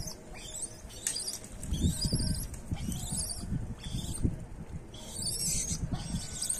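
Small birds chirping and trilling in short, repeated high phrases, over an irregular low rumble.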